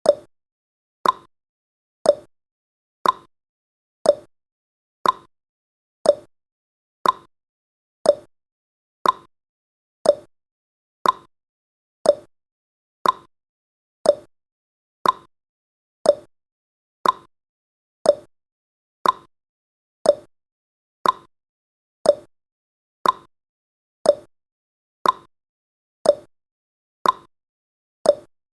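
Clock-style tick-tock sound effect: one short tick every second, alternating between a higher and a lower pitch, counting off the seconds of a countdown timer.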